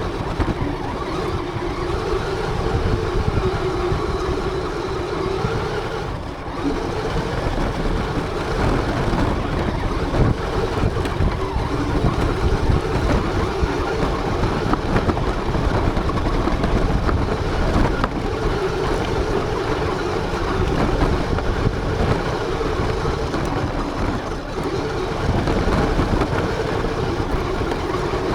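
RC car driving, heard from a camera on board: a steady motor whine that sags briefly a couple of times, over a dense rumble of the wheels and chassis.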